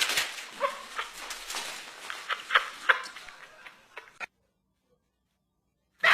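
Short sounds from a pet animal, mixed with a few sharp clicks about two and a half to three seconds in, then dead silence for nearly two seconds.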